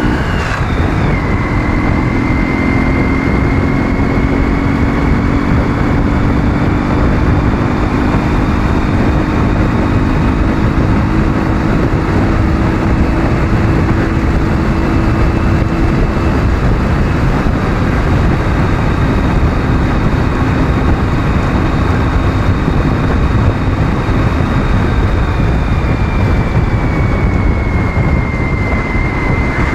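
A Ural motorcycle's 650 cc flat-twin engine pulling at a steady cruising speed, under a loud rushing noise of wind and road. The engine note drops about a second in, then holds steady.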